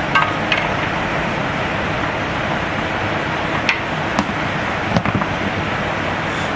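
Steady rushing noise with a few short clicks and knocks of tools and metal parts during work under a car, several just after the start and a cluster around the middle.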